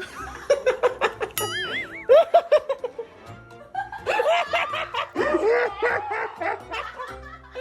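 People laughing in quick repeated bursts over background music, with a brief warbling tone about one and a half seconds in.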